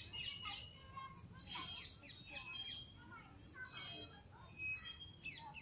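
Several birds chirping and calling in trees, many short high chirps and quick falling whistles overlapping, over a low background rumble.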